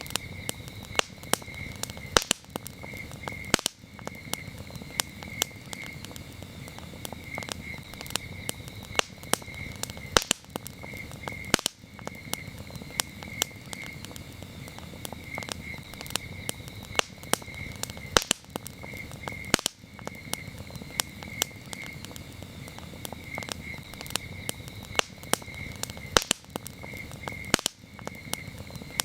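Campfire crackling with frequent sharp pops over a low steady rush of burning wood, while crickets chirp in rapid pulsed trills.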